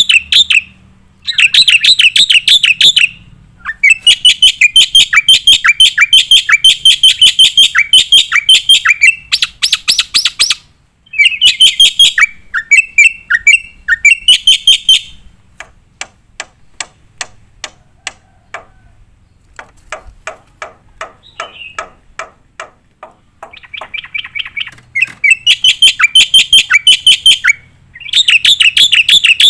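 Black-winged starling (jalak putih) in full song: long runs of rapid, repeated shrill chattering notes, with a quieter stretch of sharp clicking notes about halfway through before the loud runs return.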